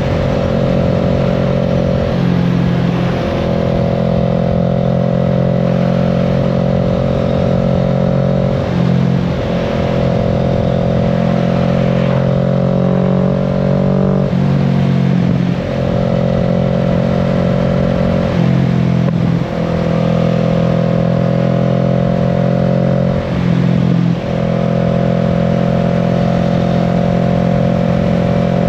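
Kawasaki Z650's 649 cc parallel-twin engine running under way at steady revs, broken by brief dips in the engine note about every five seconds, over the rush of road and wind noise.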